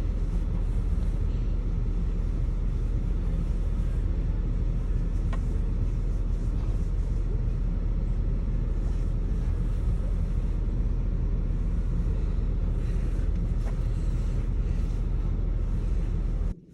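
Steady low rumble of an idling vehicle engine that cuts off suddenly near the end.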